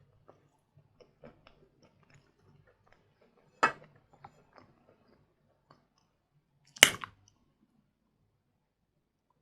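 Hard sawn Vatutin chalk being bitten and chewed close to the microphone: faint crunching throughout, with two loud, sharp snaps about three seconds apart as bites break off the bar.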